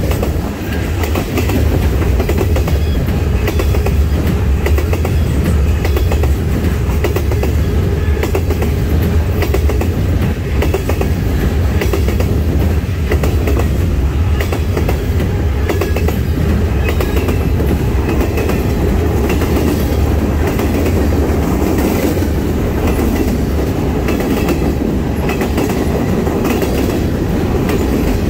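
Cars of a Norfolk Southern manifest freight train rolling past close by: a loud, steady rumble with wheels clicking over the rail joints.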